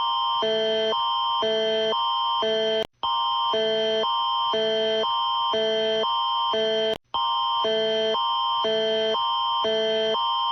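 Canadian emergency alert attention signal (Alert Ready tone): two chords of steady tones swapping about every half second, a higher pair near 1 kHz and a lower pair near 440 and 660 Hz, over a constant high tone. The tone drops out briefly about three seconds in and again about seven seconds in, then resumes.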